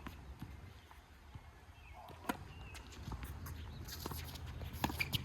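A few sharp knocks of a ball being struck with a racket or paddle, one about two seconds in and two louder ones near the end, over a low steady rumble.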